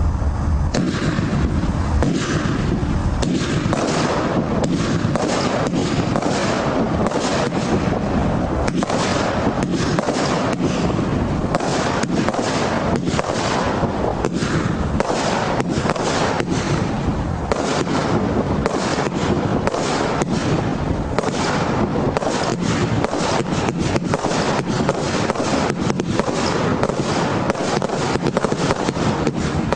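A multi-shot fireworks barrage firing a rapid, continuous string of bangs, about two a second, over a constant crackle.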